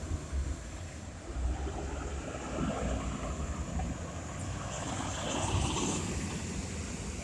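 Street ambience: a low rumble of passing traffic, with wind buffeting the microphone.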